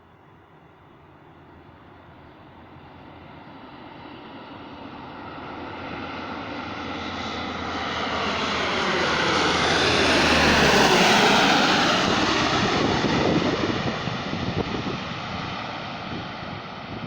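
Lockheed C-130H Hercules on landing approach, its four Allison T56 turboprop engines growing steadily louder as it nears, loudest about eleven seconds in as it passes, then fading as it goes by.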